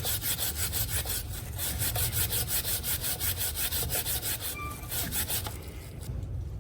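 Stiff brush scrubbing a motorcycle drive chain, working on the inside of the links, in quick, even scratchy strokes that stop shortly before the end.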